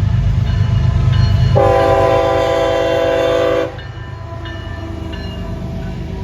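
Freight train led by a GE Evolution-series (GEVO) diesel locomotive passing close by, with a heavy low engine and wheel rumble throughout. The locomotive's multi-chime air horn sounds once for about two seconds, starting a second and a half in.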